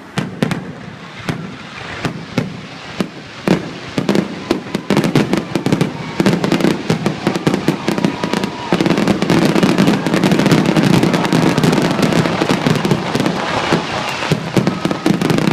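Aerial fireworks going off: separate bangs at first, coming faster and faster until, about halfway through, they merge into a dense, continuous barrage of bangs and crackling.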